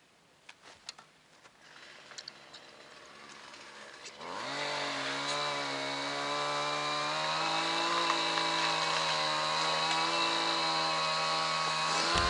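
Small petrol engine of a tool clearing the bank: it starts up about four seconds in, its pitch rising, then runs steadily at high revs. A few faint clicks and rustles come before it.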